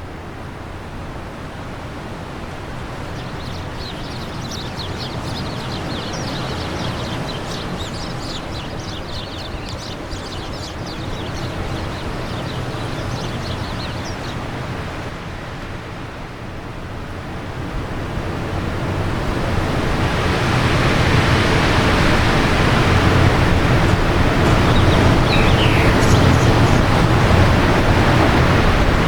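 Wind blowing steadily, swelling into a stronger, louder gust about two-thirds of the way through. Birds twitter in quick high chirps over it for the first half, with a few more chirps near the end.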